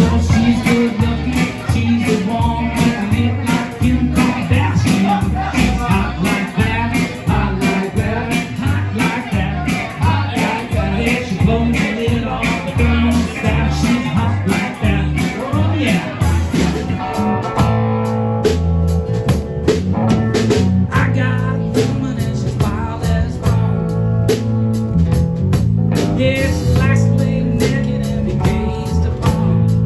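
Blues-rock band music with electric guitar, bass, drums and singing. About 17 seconds in it moves into a guitar-led passage of held notes over the beat.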